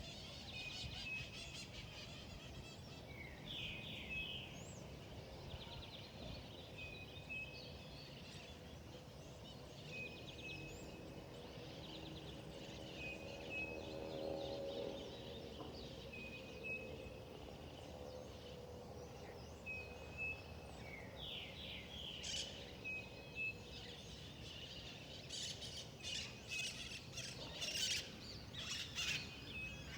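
Wild birds calling, one repeating a short high note every second or so, with quick falling chirps and a busier spell of rapid chirping near the end. A faint pitched sound rises briefly about halfway through, over a steady low background hiss.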